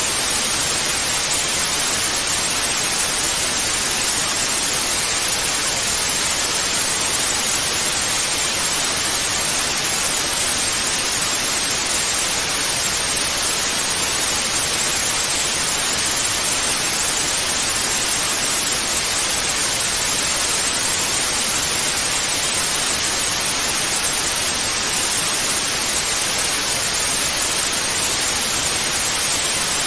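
Analogue television static (snow noise): a steady, even hiss with no changes.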